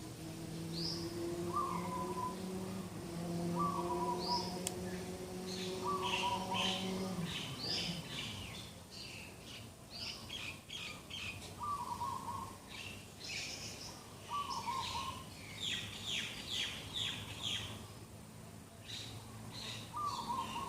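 Morning birdsong from several birds: quick high chirps and trills that grow busier after a few seconds, over a lower call repeated every two to three seconds. A low steady hum fades out about seven seconds in.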